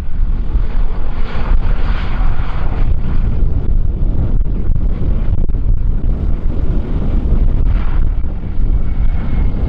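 Strong wind buffeting the microphone: a loud, continuous low rumble, with a fainter hiss that swells and fades twice.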